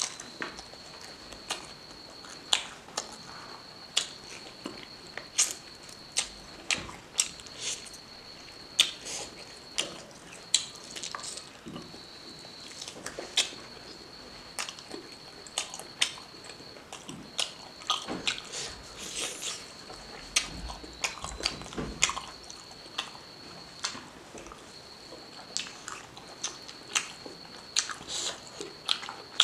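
Close-miked chewing and biting of pork and rice, with sharp wet mouth clicks and smacks coming every second or so. A thin high whine runs behind it, breaking off and coming back several times.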